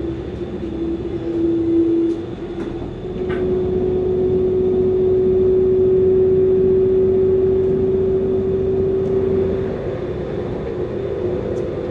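Inside a Transwa Prospector diesel railcar running at speed: a steady rumble with a droning whine over it. The whine steps up in pitch about three seconds in, holds steady, and fades near the end.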